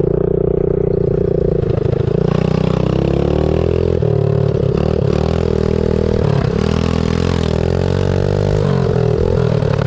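Pit bike engine running hard under way, its pitch climbing and then dropping and picking up again several times as the throttle is worked.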